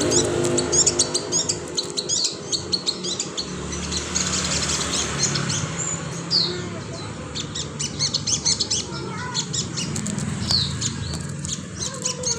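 Pet songbird singing a fast run of short, high chirps and trills, with a few quick sliding notes.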